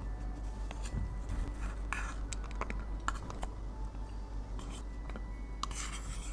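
Light clicks and taps from handling cosmetics and their cases, with a short scrape about two seconds in and a longer one near the end, over quiet background music.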